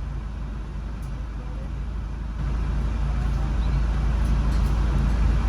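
Car engine and road noise: a steady low rumble that gets louder about two and a half seconds in.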